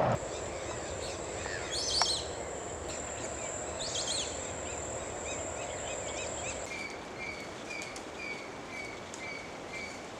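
Wild birds calling over a steady high-pitched insect whine. Two chirping bird calls come about 2 and 4 seconds in; the whine stops about two-thirds through, and a short call then repeats about three times a second.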